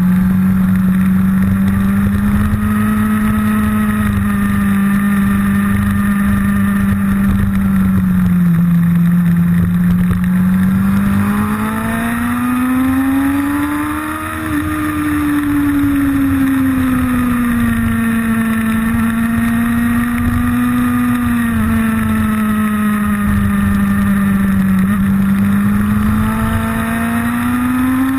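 Motorcycle engine heard from on board while riding, its note rising and falling as the throttle opens and eases. The pitch climbs to a peak about halfway through, drops back, and climbs again near the end.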